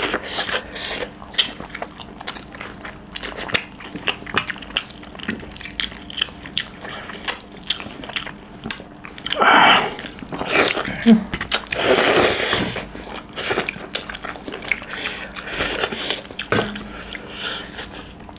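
Close-miked chewing and wet mouth clicks of two people eating chicken curry with their hands. A few longer, louder noises come about halfway through.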